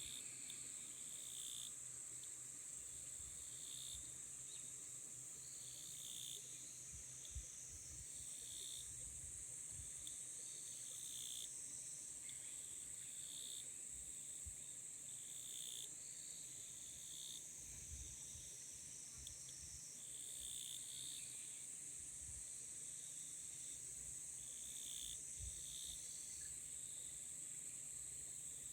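Insects singing: one keeps up a steady, high-pitched trill while another repeats short chirps lower down, about once a second.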